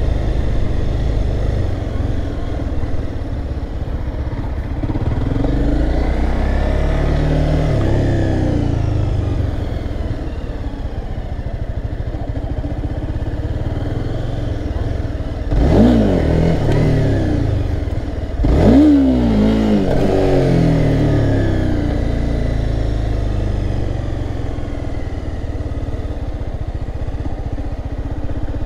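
Honda CBR300R's single-cylinder engine running at low speed, its pitch rising and falling gently, then revved sharply twice about three seconds apart a little past halfway: the throttle snapped open for wheelie attempts.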